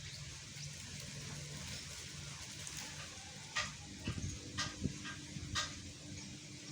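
Young speckled songbird twittering in short, scratchy chirps, with three louder sharp calls about a second apart in the second half: a juvenile bird beginning to practise its chattering song.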